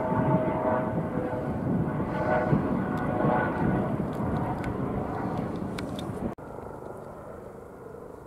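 Airplane engines running as the aircraft moves away, a steady whine over a rumble that slowly fades. About six seconds in, the sound cuts off abruptly, leaving only a quieter background.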